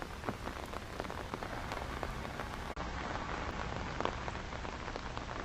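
Steady heavy rain, with many small raindrop ticks close to the microphone. The sound drops out for an instant a little over halfway through.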